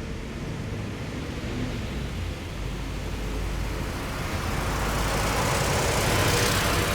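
Military vehicle driving past close by: a steady low engine rumble, with engine and tyre noise swelling from about four seconds in and peaking near the end as it passes.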